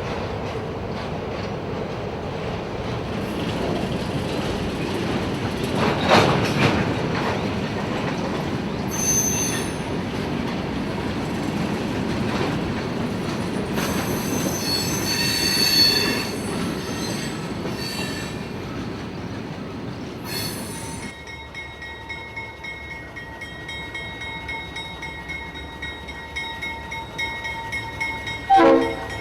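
Freight train rolling slowly in street running, its wheels squealing in high-pitched bursts several times over the steady rumble of the cars. About two-thirds in the rumble drops, leaving a faint thin squeal, and a brief loud blast sounds near the end.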